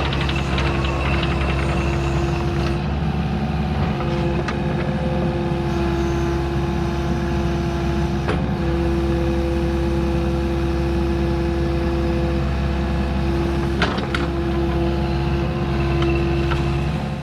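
Diesel engine of a piece of earthmoving equipment running steadily under work, with a steady high whine that drops out briefly a few times and a couple of sharp clunks.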